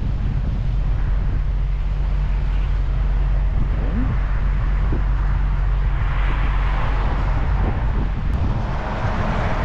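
Steady low hum of an idling vehicle engine, with wind noise on the microphone. A louder rush of hiss swells up from about six seconds in.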